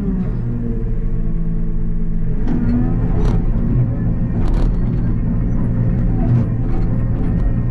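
Takeuchi TB285 mini excavator's diesel engine running steadily under load, driving a hydraulic rotary brush cutter. Several sharp knocks with a brief ring sound over it, the loudest about three and four and a half seconds in.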